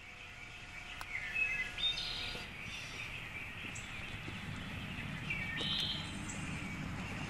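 Birds chirping, with short calls scattered through, over outdoor background noise; a low steady rumble comes in about halfway.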